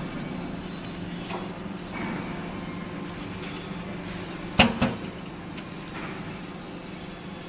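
Vertical baler and its surroundings giving a steady machine hum, with a sharp double clank, two hits in quick succession, about four and a half seconds in.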